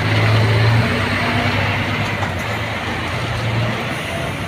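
Large diesel bus engine running, a steady low hum that swells briefly at the start and again near the end.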